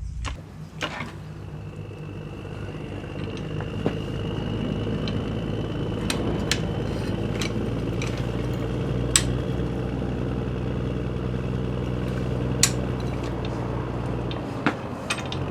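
A powered lift's motor runs steadily as it pulls up on the stuck crankshaft of a water-seized Ford 360 FE engine, with scattered sharp metal clicks and ticks under the strain. The drone starts about half a second in and stops shortly before the end.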